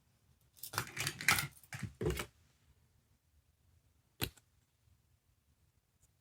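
Small plastic sound-making capsule toy: a quick run of clicks and rattles lasting about a second and a half, then a single sharp click about two seconds later.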